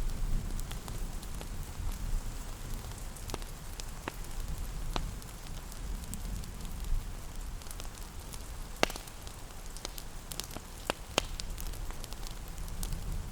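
Wood fire crackling, with scattered sharp pops over a low steady rumble, layered with steady rain; the sharpest pops come about nine and eleven seconds in.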